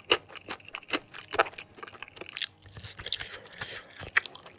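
Close-up chewing of fried chicken with sambal: irregular wet mouth clicks and smacks, several a second.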